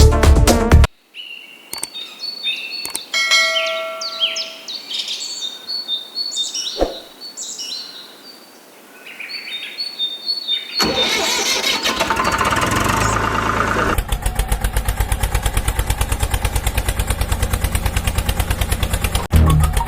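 Short, high bird-like chirps and whistles. About eleven seconds in, an engine starts and then runs with a steady, rapid throb.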